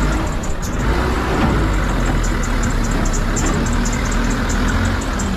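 Heavy vehicle engines running with a steady low rumble, amid road traffic noise.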